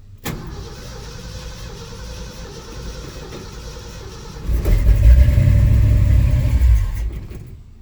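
Ford 360 FE V8 being cranked by the starter for about four seconds, then louder for about two seconds as it starts to catch, dying away near the end. It is slow to fire because it is only just getting fuel, and the owner bets the carburettor fuel bowls are empty.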